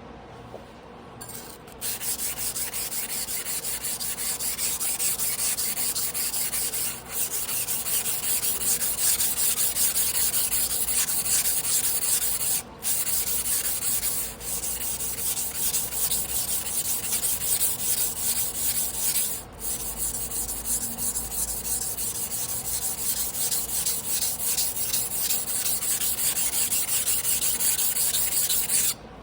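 Damascus carbon-steel sashimi knife rubbed back and forth by hand on a wet whetstone, in steady quick strokes with three short breaks. The strokes stop shortly before the end.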